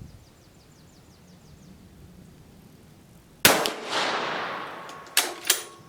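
A single shot from a Dutch Beaumont 11 mm bolt-action rifle about three and a half seconds in, its report echoing and dying away over about a second and a half. Two sharp metallic clicks follow near the end.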